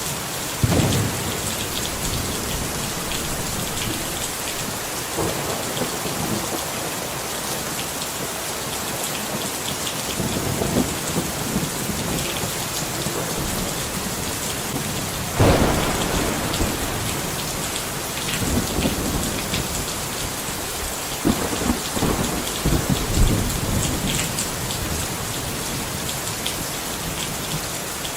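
Steady rain pouring down, with thunder rumbling several times over it: once about a second in, the loudest roll a little past halfway, and a cluster of rolls in the last third.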